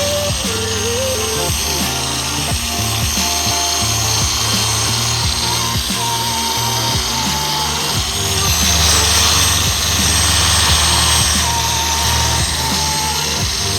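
Background music over the steady whir of an electric car polisher running an orange cutting pad with fine-cut compound across a headlight lens.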